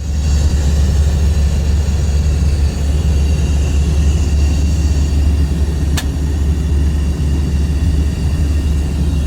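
Boeing 737-800 in flight: a steady, loud rumble of jet engines and airflow, with a faint whine above it. A single sharp click comes about six seconds in.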